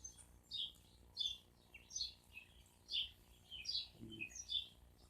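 A small bird chirping over and over: short, high, falling notes about every half second to a second, with a brief low sound about four seconds in.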